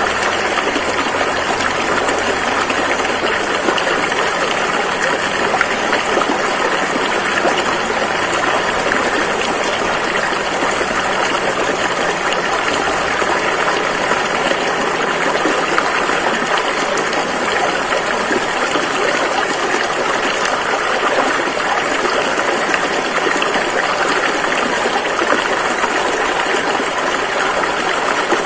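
Rushing river water flowing over rocks: a steady, dense rush with no breaks.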